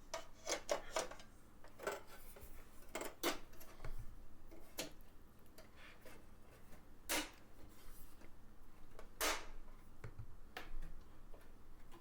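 Aluminium side panel of a small PC case being fitted back on: a string of separate metallic clicks and knocks, the loudest two about seven and nine seconds in.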